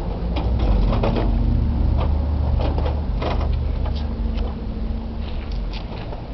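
Irregular clicks and knocks of a Tonka toy truck being handled and pushed about, over a steady low hum.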